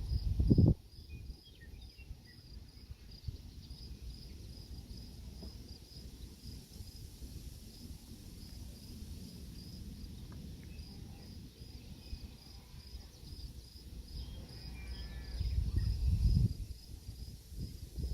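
A cricket chirping steadily in a high, even rhythm of about two to three chirps a second. There are low rumbles at the start and again about sixteen seconds in.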